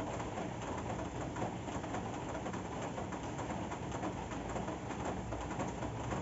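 Steady rain falling, a dense run of drop ticks over an even low rush that holds without a break.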